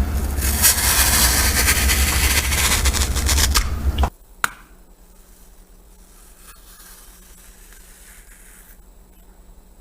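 Loud, dense scraping for about four seconds that cuts off abruptly, then a single click and a faint steady hum.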